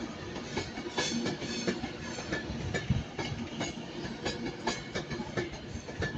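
Avanti West Coast Class 390 Pendolino electric train moving slowly as it arrives at a station, its wheels clacking over the rails a few times a second at uneven spacing over a steady rumble.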